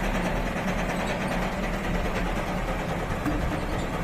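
Heavy vehicle engine idling steadily, a deep even hum with no change in speed.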